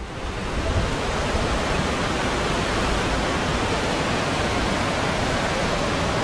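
Steady, loud rushing noise without break, the kind made by fast-moving water or strong wind.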